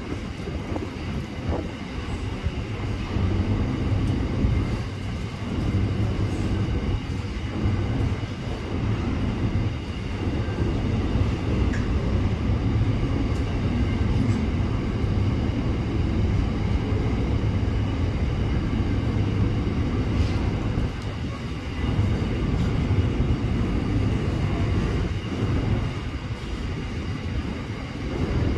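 Container freight train's loaded wagons rolling past on the adjacent track: a steady low rolling noise of steel wheels on rail.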